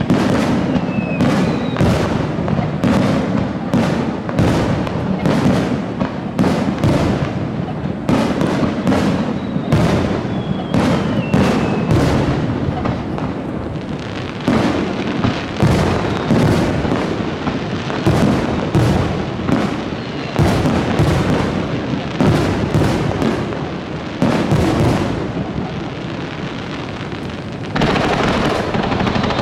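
Fireworks display: a rapid barrage of aerial shell bursts, bang after bang over a rumbling low boom, with a faint falling whistle about ten seconds in. The barrage thins briefly near the middle and again near the end.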